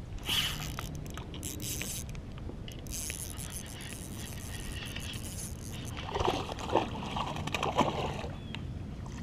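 Water splashing and sloshing against a plastic kayak as a hooked bass is brought alongside and landed, with a cluster of knocks and scrapes on the hull around the middle to late part.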